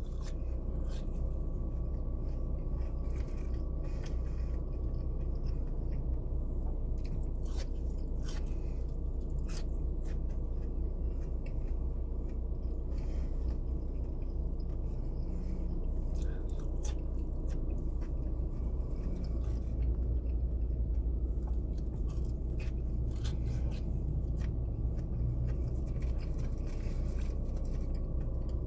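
A man chewing and eating fries, with scattered soft crunches, clicks and rustles, over a steady low hum inside a car.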